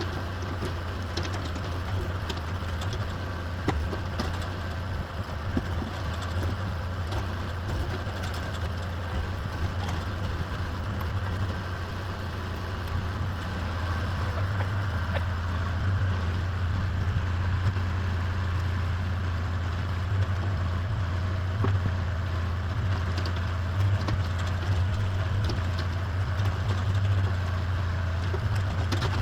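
Excavator's diesel engine running steadily, a little louder about halfway through, with a few faint knocks.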